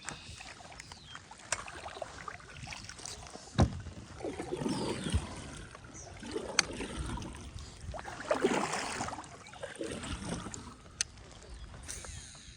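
Handling sounds on a fishing kayak: several sharp knocks, the loudest about three and a half seconds in, between swelling swishes of water or movement noise.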